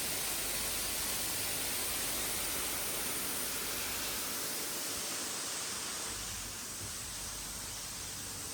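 Steady rushing hiss of spraying or falling water, easing slightly about two-thirds of the way through.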